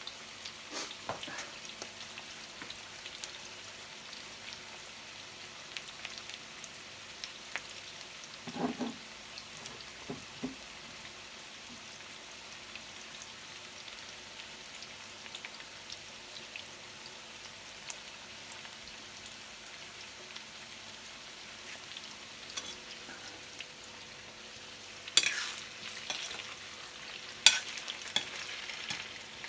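Chicken kaldereta sizzling in a pan, a steady frying hiss with scattered pops. A couple of dull knocks come about a third of the way in, and several sharp clacks near the end, typical of a utensil against the pan while stirring.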